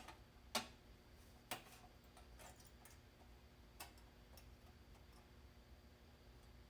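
Near silence with a few faint, sharp clicks and taps spaced irregularly over several seconds, from parts being handled and lined up, over a low steady hum.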